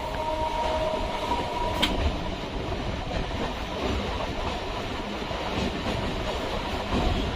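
Electric suburban train running along the track, a steady rumble with wheel clickety-clack. A faint steady whine sounds in the first two seconds and fades, and a single sharp click comes about two seconds in.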